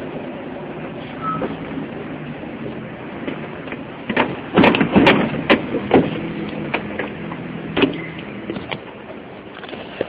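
City street ambience: steady traffic noise with a low engine drone, broken about four to six seconds in by a quick run of sharp knocks and clatters, the loudest sounds.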